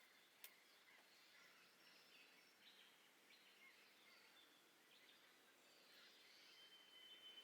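Faint wild birdsong: scattered short high chirps and whistles over a quiet background. There is a single sharp click about half a second in, and a thin steady whistle near the end.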